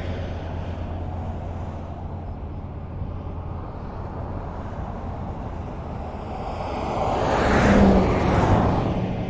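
Highway traffic: a steady low rumble of road noise, with one vehicle passing close by. It swells from about six seconds in, is loudest near eight seconds, then fades away.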